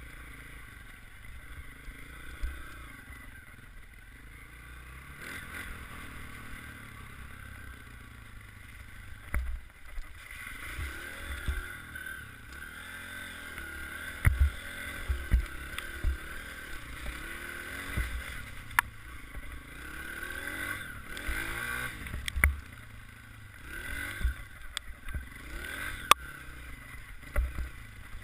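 Dirt bike engine revving hard at full throttle, its pitch rising and falling over and over, with short low thumps throughout.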